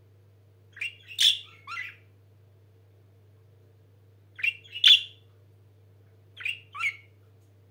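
Budgerigars giving short, sharp chirps in three brief clusters of two or three calls each: about a second in, about four and a half seconds in, and about six and a half seconds in.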